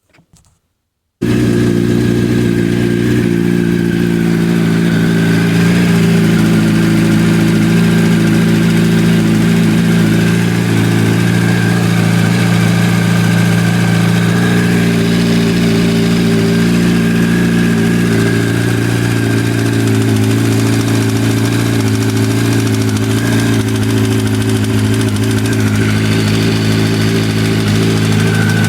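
Yamaha YZF-R1 (5VY) inline-four engine idling steadily with a rattling knock, the fault the owner is asking about. It starts suddenly about a second in.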